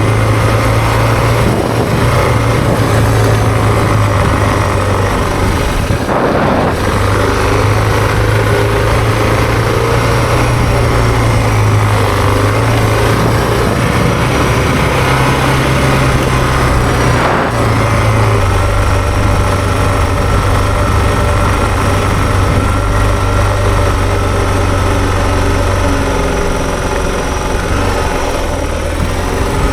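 Suzuki DR650's single-cylinder four-stroke engine running under way. Its low note steps in pitch a few times with changes in speed, over a constant rushing noise.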